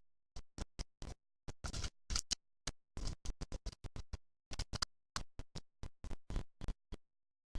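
Choppy, broken-up audio: short snippets of sound, several a second, cut off abruptly by dead silence, as the recording's sound keeps dropping out. There is a long gap of silence near the end.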